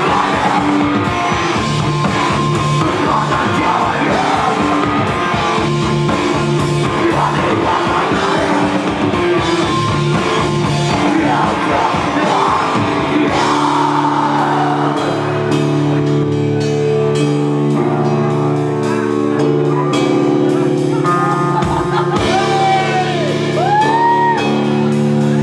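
Live rock band playing loud, with singing, distorted guitar and a drum kit. About halfway through, the drum hits thin out and long held guitar chords ring on. Near the end a high note bends up and down.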